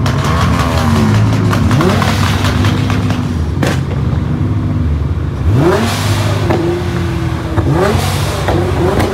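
Car engines revving several times over a steady low engine rumble, each rev a quick rise in pitch, with one sharp pop about three and a half seconds in.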